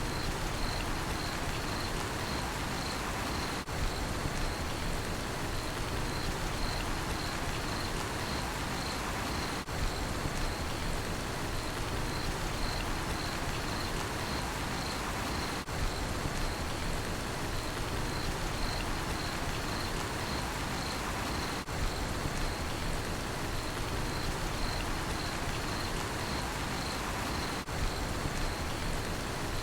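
Steady rainfall hissing, with a cricket chirping in a fast even rhythm of about two high chirps a second over it. The level dips briefly about every six seconds.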